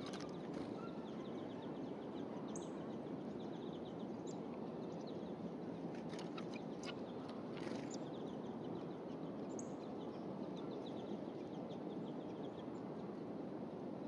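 Small songbirds chirping in quick series of short high notes against a steady hiss of outdoor background noise, with a few sharp clicks about six to eight seconds in.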